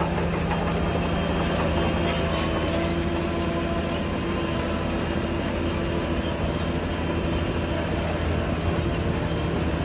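Crawler bulldozer working, its diesel engine running steadily under load with the steel tracks clattering and squealing.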